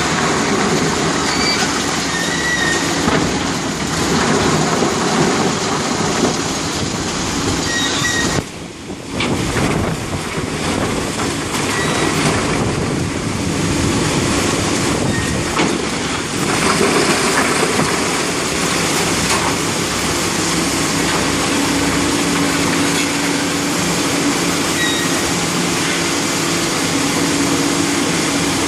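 Demolition machinery working on a concrete building: a steady, loud mechanical din with short high metallic squeals now and then, and a brief lull about eight seconds in.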